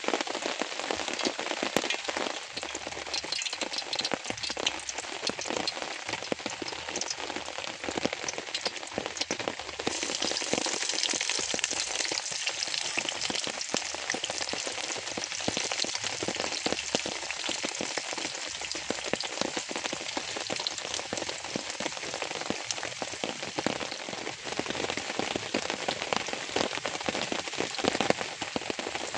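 Rain falling steadily, a dense patter of many small drops hitting a surface, growing a little brighter and denser about a third of the way through.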